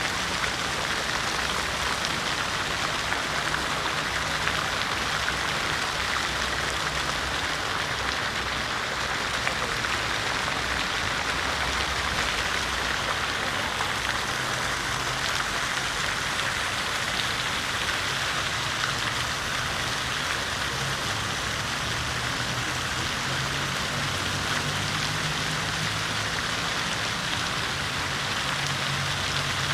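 City fountain water splashing and falling steadily into its basin, a constant even rush, with a faint low hum underneath at times.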